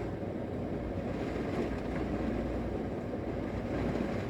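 Thunderstorm wind and rain heard through a hotel window from inside the room, a steady low rumble.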